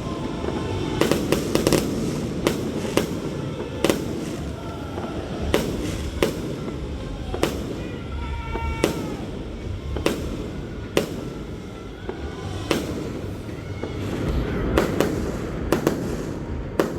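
Aerial fireworks bursting: a string of sharp bangs at irregular intervals, roughly one a second, over a steady background din.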